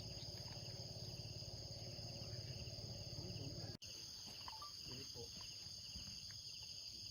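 Crickets and other insects chirring in a steady, high, pulsing chorus. A low rumble sits under it for the first half and stops at a brief dropout about halfway through.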